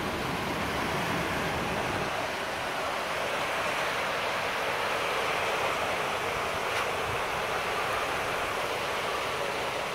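Heavy rain falling steadily, an even, continuous hiss.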